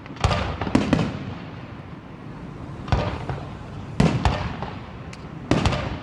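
Aerial fireworks going off: a series of sharp booming shell bursts, each trailing off, coming every second or so with a lull around the two-second mark.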